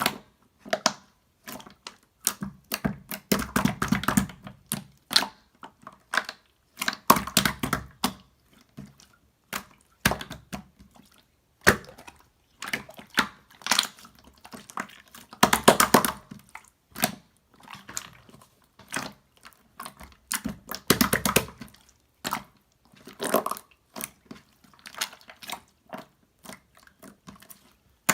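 Irregular close-up wet clicks and crackles, coming in denser bursts every few seconds, of something being handled or squeezed.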